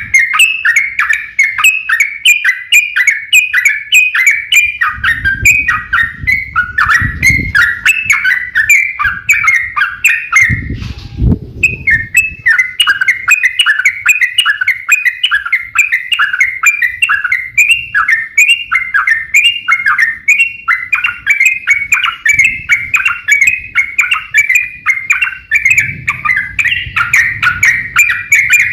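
Yellow-vented bulbul (trucuk) singing its fast 'ropel' song: an unbroken stream of quick, bright, downward-slurred notes, several a second, with one short pause about eleven seconds in. A faint low rumble sits underneath in places.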